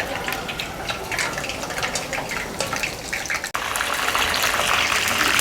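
Cornflour-coated chicken pieces deep-frying in hot oil: a steady sizzle full of small crackles and pops, growing louder and denser about three and a half seconds in.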